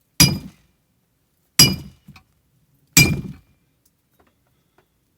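Three hammer blows on a steel axe head, about 1.4 s apart, each a sharp strike with a short bright ring.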